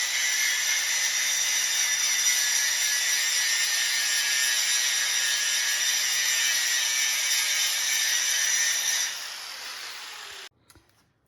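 A power grinder or sander running steadily against the steel of a Dana 70 axle housing, grinding off old welded-on mounts and thick paint. It stops about nine seconds in and winds down.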